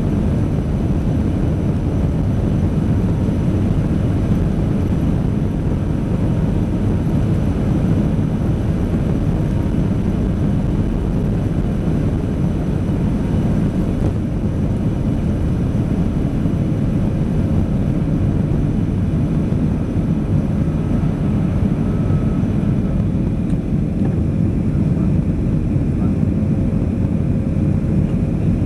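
Airliner cabin noise during takeoff and climb-out: the engines and rushing air make a loud, steady rumble.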